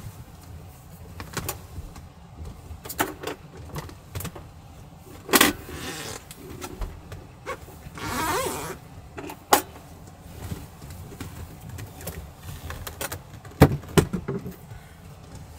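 Scattered clicks and knocks of objects being handled, with a short rustling swell about eight seconds in, over a steady low rumble.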